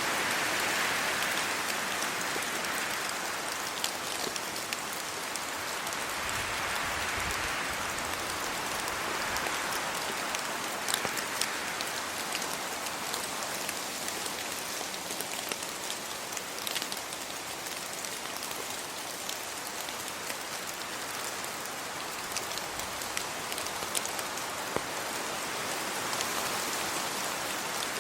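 Steady rain falling on trees, leaves and a road, with scattered close drops ticking sharply. The hiss swells twice in the first ten seconds.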